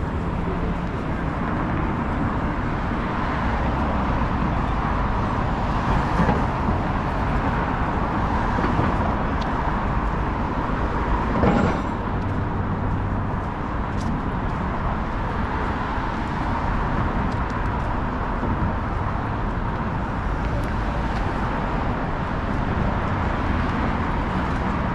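Downtown city street ambience: steady traffic noise of passing cars, with a louder passing vehicle about halfway through.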